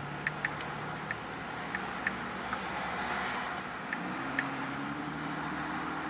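Freight train rolling past: a steady rumble with scattered light clicks and a low hum that steps up in pitch about four seconds in.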